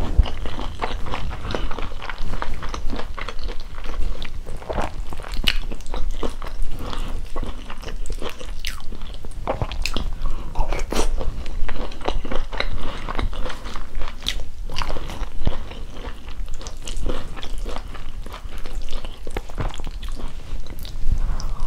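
Close-miked chewing and mouth sounds of someone eating ugali with cabbage and beef stew by hand, a steady run of small clicks and smacks.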